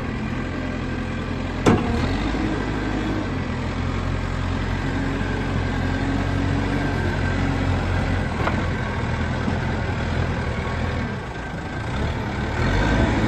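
The diesel engine of a 2003 JCB 214 loader backhoe runs steadily at idle. There is a single sharp clack about two seconds in, and the engine gets a little louder near the end.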